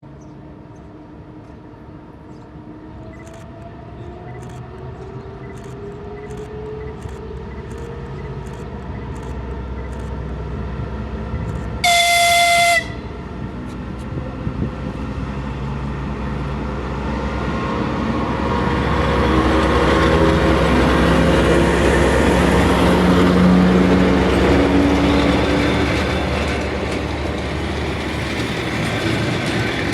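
Diesel locomotive drawing near and passing, its engine and running noise growing steadily louder. One short horn blast sounds about twelve seconds in. Faint, evenly spaced clicks of wheels over rail joints come before it.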